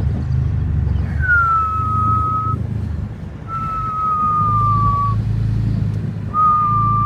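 A 2012 Dodge Charger R/T's 5.7 L Hemi V8 rumbles low while driving. Over it comes a high whistle, heard three times, each a drawn-out single tone of about a second and a half that sags slightly in pitch.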